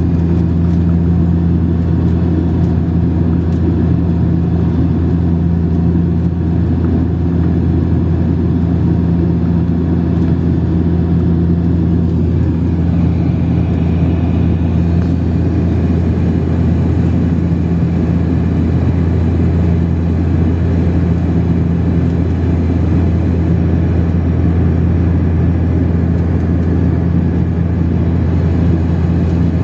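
Steady drone of an airliner's engines heard from inside the cabin on approach to landing, a loud low hum with airflow noise over it. A faint higher whine joins about halfway through.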